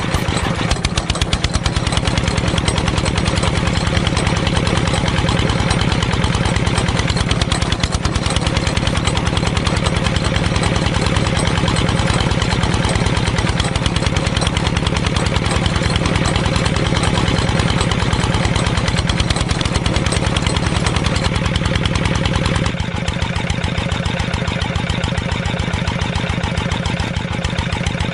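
Small engine running steadily with rapid, even firing pulses. About three-quarters of the way through, the low rumble drops and it runs a little lighter.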